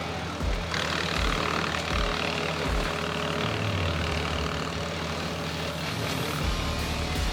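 Tractor engine running, driving a PTO wood chipper, with the mid range thickening about a second in. Background music with a slow, steady beat plays over it.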